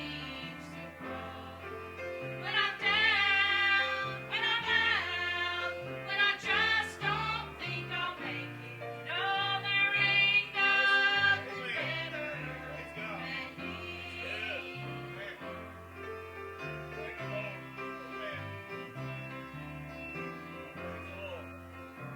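Gospel song sung in church with instrumental accompaniment and a stepping bass line. The voices are loudest in wavering, held phrases during the first half, then the music goes on more softly.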